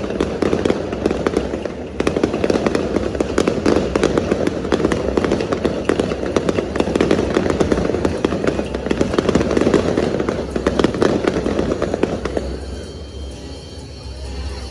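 Fireworks crackling: a dense, rapid run of pops and crackles that thins out and fades about twelve seconds in.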